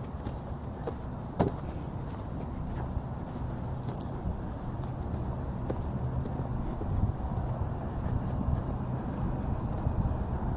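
Insects chirping in a steady, high-pitched pulse, about two chirps a second, over a low rumble, with one sharp click about a second and a half in.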